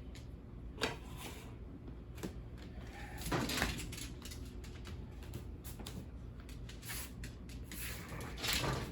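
Kitchen handling sounds: a sharp click about a second in, then two brief noisy bursts of things being moved, one around three and a half seconds in and one near the end, over a steady low hum.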